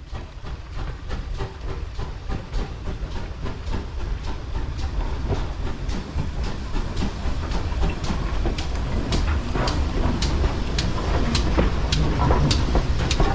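Heritage railway train on the move: a steady low rumble with regular sharp clicks about two a second, growing gradually louder.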